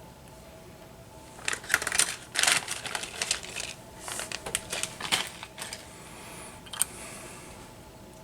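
Small workbench handling sounds: a run of sharp clicks, taps and rustling scrapes for a few seconds, then one last click, over a faint steady hum.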